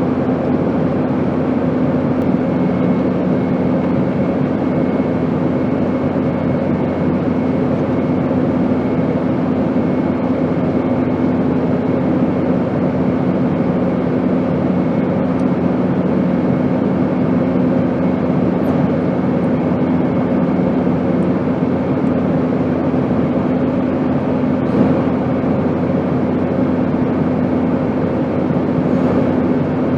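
Airplane noise: a steady, unchanging drone of rushing noise with a low hum under it.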